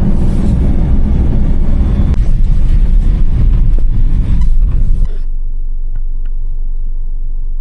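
Kei truck running, a steady low engine and road rumble. About five seconds in it drops to a quieter, steady hum.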